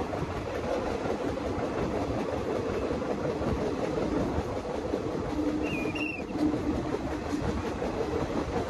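Passenger express train running along the track: steady rolling noise of the coaches with wheels clicking over rail joints.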